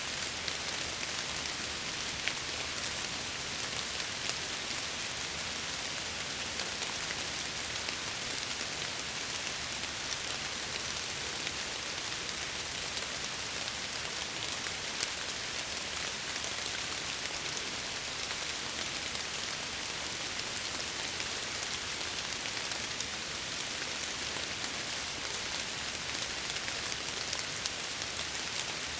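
Steady rain falling against window glass, a constant hiss with many small drop ticks.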